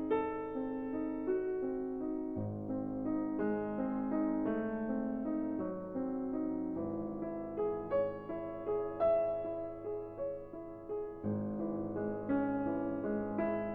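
Background music: a piano playing a flowing melody over held bass notes.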